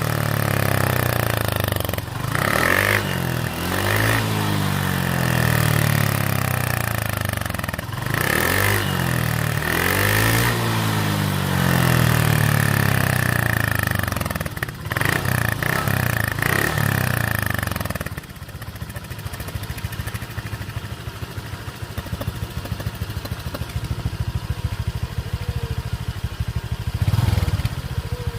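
Motorcycle engine through a home-modified loud 'mber' exhaust, revved again and again in rising and falling blips. About two-thirds of the way in it drops back to a steady, rapidly pulsing idle.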